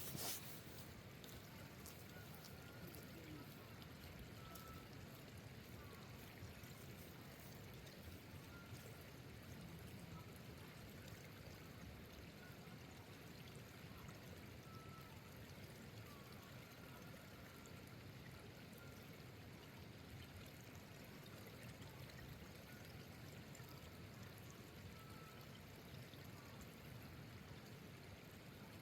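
Faint, steady hiss of light rain falling, with a few faint short high tones scattered through it.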